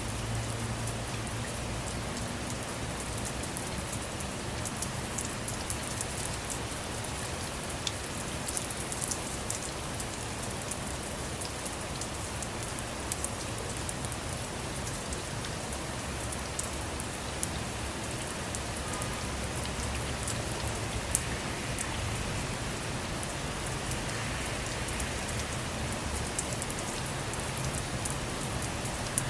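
Steady rain falling on a car's roof and windows, heard from inside the car: an even hiss with scattered sharper drop ticks and a low steady rumble underneath.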